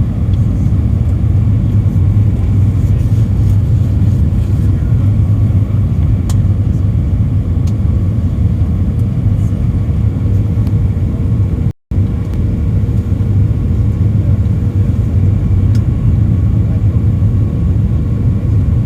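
Steady cabin noise inside an Airbus A319: a deep rumble of engines and airflow with faint steady whining tones over it. The sound cuts out for a split second about twelve seconds in.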